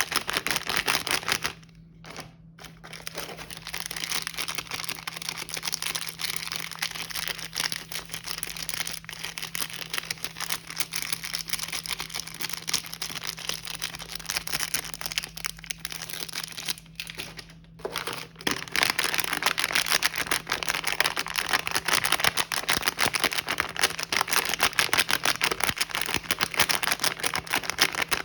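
Plastic snack packaging crinkling as it is handled, a dense run of small crackles with two brief pauses, one about two seconds in and another a little past the middle.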